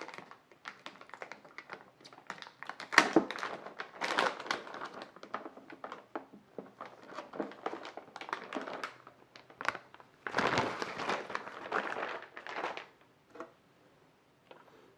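Packaging rustling and crinkling with scattered light knocks and taps as a motherboard is unpacked and handled. The loudest is a sharp knock about three seconds in, and there is a longer rustle about ten seconds in.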